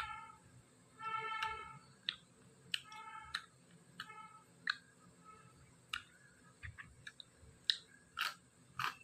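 Close-up mouth sounds of eating: wet chewing and sharp clicks from pork, then crisp crunches as a raw cucumber slice is bitten, loudest near the end. A few brief, steady high-pitched tones sound in the first half.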